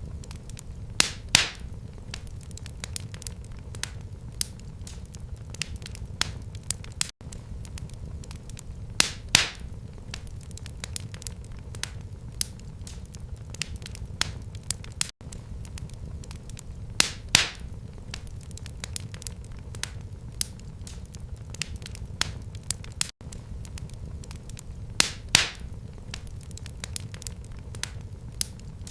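Wood fire crackling in a fireplace: a low steady rumble of flame with frequent sharp pops and snaps. The same pattern of louder pops comes back about every eight seconds.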